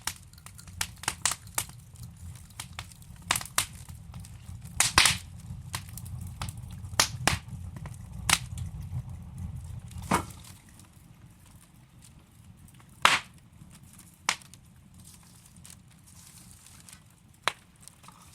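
Wood fire burning in a fireplace, logs crackling and popping with sharp, irregular snaps over a low rumble of the flames. The rumble dies down about ten seconds in, leaving sparser pops.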